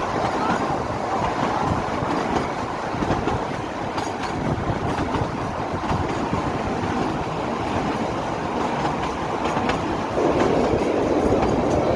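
Narrow-gauge Kalka–Shimla toy train running along the track, a steady rumble of wheels on the rails with light clicks over the rail joints, heard from on board. The noise steps up a little about ten seconds in.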